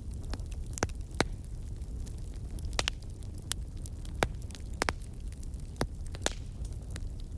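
Fireplace crackling: sharp, irregular pops and snaps, about a dozen of them, over a steady low rumble.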